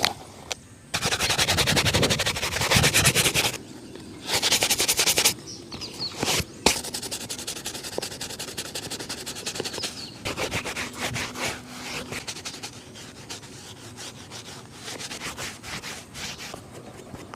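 Shoe leather being brushed and rubbed during a shoe shine: two spells of fast, brisk strokes, then quieter steady rubbing. A single sharp knock comes about a third of the way in.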